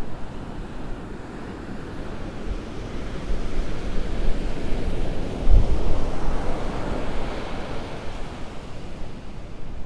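Storm-driven surf breaking and washing up the beach under strong wind, with the wind buffeting the microphone. The surf swells loudest about six to seven seconds in, just after a brief low rumble of a gust on the microphone.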